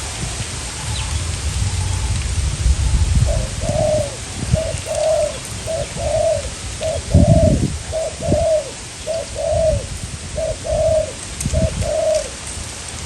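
Spotted dove cooing, a repeated series of soft, low coo notes in short-long pairs that starts about three seconds in and stops near the end. Strong wind buffets the microphone with a gusty low rumble.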